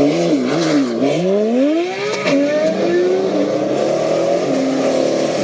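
A sports car engine revving up and down in several quick swells, then running at steadier pitches that change in steps, ending in a steady drone.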